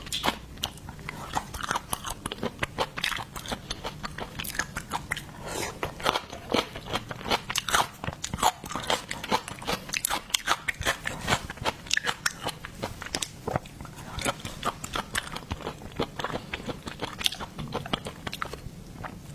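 Close-miked crunching, biting and chewing of seafood, a dense run of crisp, irregular crunches several times a second.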